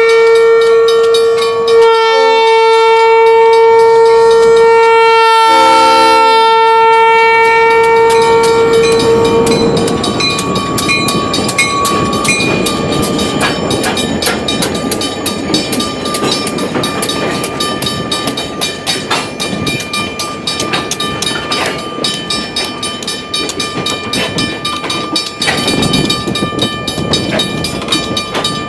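Diesel freight locomotive's air horn sounding loud, several notes together, with two brief dips, stopping about ten seconds in. Then the train's cars roll past with a steady clickety-clack of wheels over rail joints.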